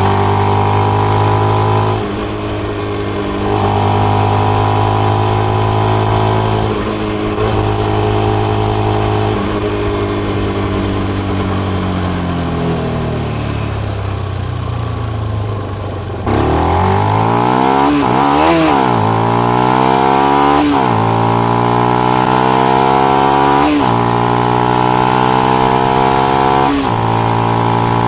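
Benelli BN125's single-cylinder engine through its stock exhaust with the dB killer fitted, under way: it holds speed through a couple of gear changes, then drops in pitch for several seconds as it slows. About halfway through it comes back in sharply, revs rising and falling quickly a few times, then pulls away climbing through about three upshifts.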